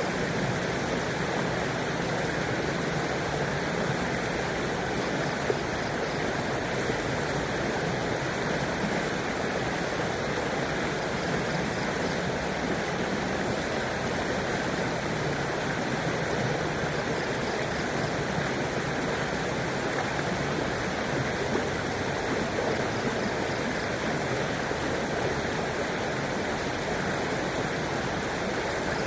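Shallow river flowing steadily over stones, an even rushing and burbling of water.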